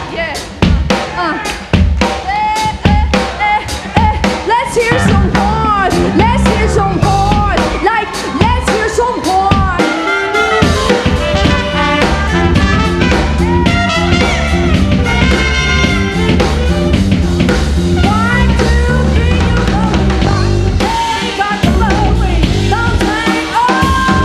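Live band music: a drum kit beat with sharp snare and rimshot hits, joined by a stepping bass line and curving melodic lines that run through to the end.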